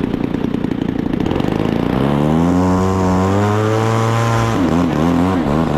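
Single-cylinder two-stroke gas engine of a large RC P-47 warbird, just auto-started, running at idle and then throttled up to a steady high pitch about two seconds in. Near the end the throttle is worked up and down.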